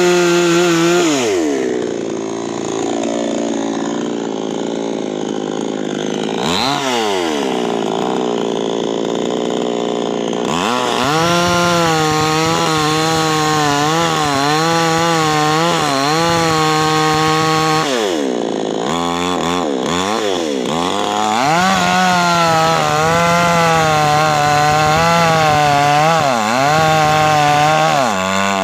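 Chainsaw running at high speed while cutting wood. Its engine pitch dips and recovers several times through the cut.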